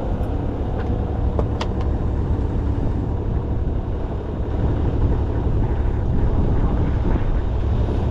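Sailing yacht's engine running steadily as the boat motors along, a constant low rumble, with a couple of faint clicks about one and a half seconds in.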